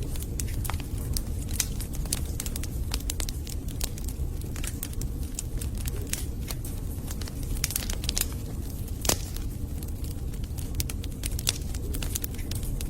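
Wood fire burning in a fireplace: a steady low rumble of flames under irregular crackling and snapping of burning logs, with a louder pop about nine seconds in.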